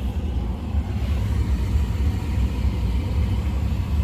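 The newly replaced blower motor in a 2014 Ford Fiesta's heater and ventilation system running, a steady rush of air over a low rumble, showing that the fan works again.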